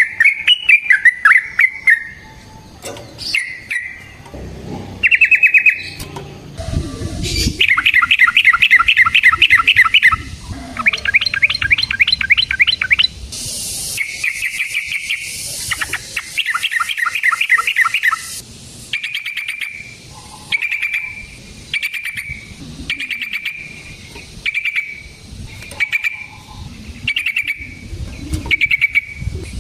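Yellow-vented bulbul singing: loud bursts of fast rolling trills, each lasting two or three seconds, then a run of short clear notes repeated about once a second.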